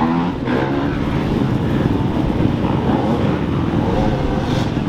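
Dirt-bike engines running in the background, a steady, loud mechanical drone with low rumble.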